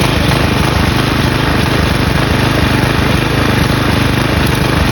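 Briggs & Stratton flathead single-cylinder lawn mower engine running loudly and steadily while sand is fed into its carburetor air intake, still running without faltering.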